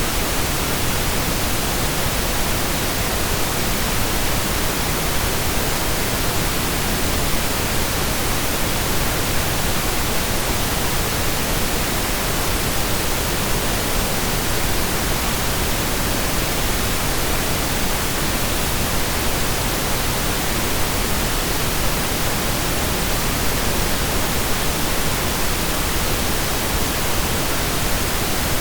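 Steady synthesized pink noise: an even hiss spread across the whole range.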